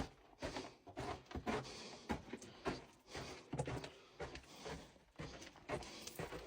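A rapid, irregular series of sharp knocks and scrapes, several a second.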